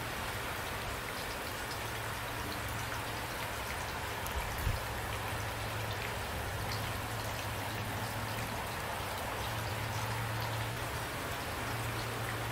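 Steady rain falling on a surface, with individual drops ticking through it and one brief low thud a little under five seconds in.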